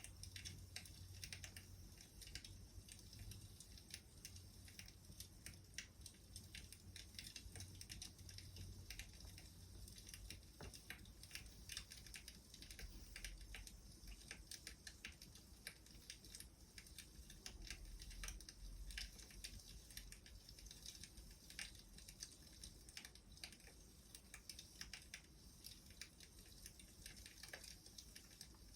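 Faint crackling of a burning wood fire: irregular small snaps and pops over a soft hiss.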